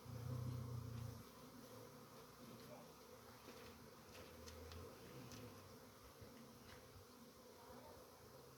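A flying insect buzzing close by, swelling loudest in the first second and again around four to five seconds in, then fading to a faint hum.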